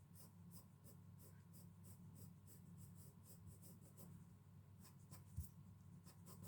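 Faint pencil strokes on paper, quick back-and-forth shading at about three to four strokes a second, with a brief pause near the end and a single soft knock.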